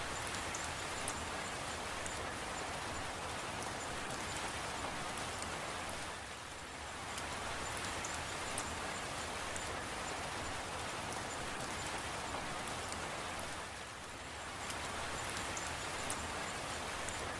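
Steady rain falling, with scattered sharp drop ticks; the rain eases briefly about six seconds in and again near fourteen seconds.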